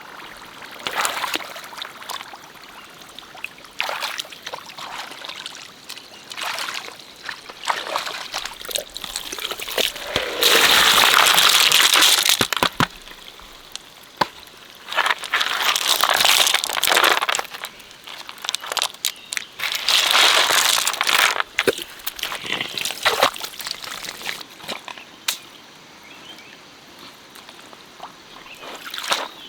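Water splashing and sloshing in several loud bursts of about two seconds each, with scattered clicks and knocks in between.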